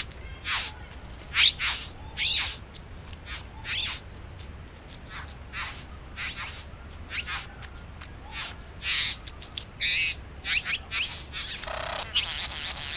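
Bowerbirds calling: a long run of short, scratchy calls at uneven intervals, crowding together and overlapping near the end.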